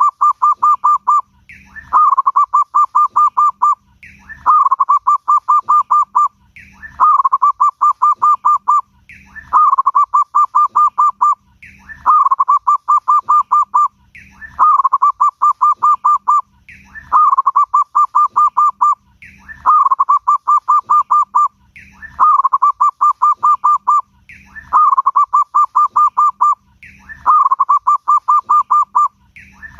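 Zebra dove (perkutut) singing its full song: a short rising note followed by a quick run of about a dozen cooing notes. The phrase repeats steadily about every two and a half seconds, around twelve times.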